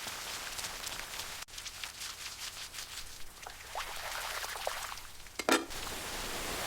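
Rain falling, a steady hiss with many separate drops striking close by. The sound breaks off abruptly about one and a half seconds in and resumes, and a single brief louder sound comes about five and a half seconds in.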